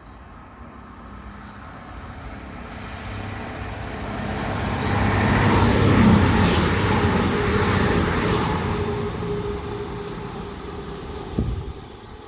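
A train passing at speed: its rumble and rail noise build to a peak about halfway through and then fade away, with a steady hum underneath. A short sharp knock comes near the end.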